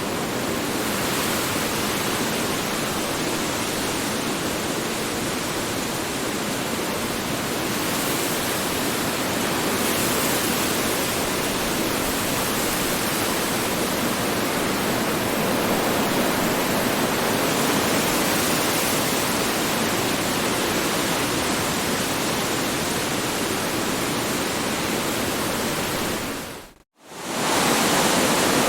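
Strong wind rushing steadily in a dense hiss, swelling and easing a little. About 27 seconds in, it fades out to near silence for a moment and comes straight back.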